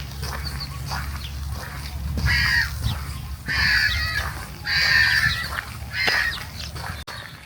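A bird calling harshly four times, each call under a second long, about a second apart, over a steady low rumble.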